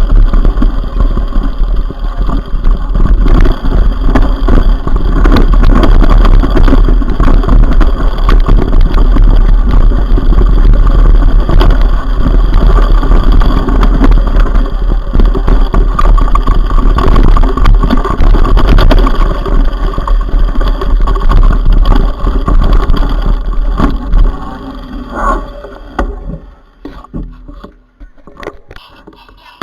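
Wind rushing over the microphone of a camera riding along on a mountain bike, with the bike rattling and clattering over rough ground. It is loud and steady, then dies away near the end.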